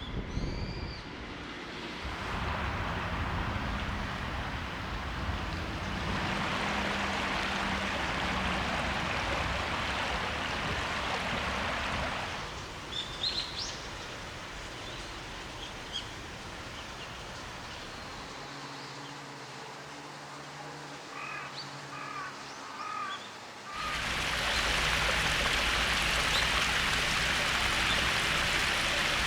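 Spring water running and splashing into a small stream, heard in several separate takes that change abruptly in loudness, loudest in the last few seconds. Small birds chirp briefly in the quieter stretches, a little before the middle and again about two-thirds through.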